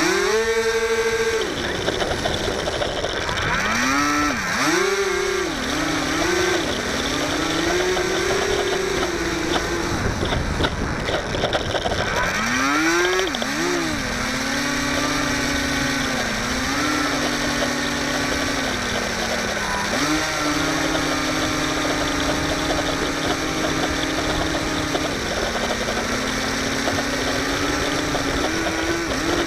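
Electric motor and propeller of a HobbyZone Firebird Delta Ray RC plane whining. The pitch swoops up and down repeatedly in the first half, then holds fairly steady for long stretches, over a constant rush of wind on the microphone.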